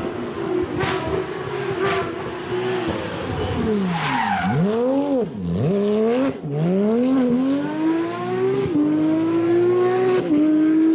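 Porsche competition car engine at full throttle, its pitch holding steady, then dropping and rising sharply several times in the middle as it brakes and accelerates, then climbing through the gears with two upshifts near the end.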